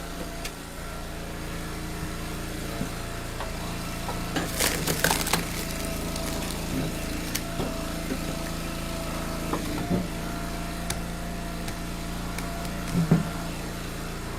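Engine of a powered log splitter running steadily while a round is forced apart, the wood cracking and splintering about four to five seconds in. Smaller knocks of split pieces follow, with a louder knock near the end.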